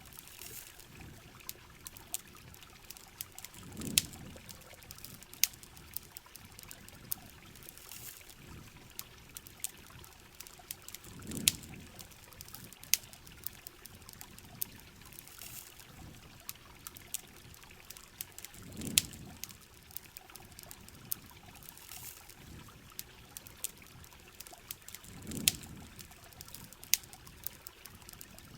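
Steady heavy rain with running water, dotted with sharp crackles from a campfire. A soft low rumble swells and fades four times, about every seven and a half seconds.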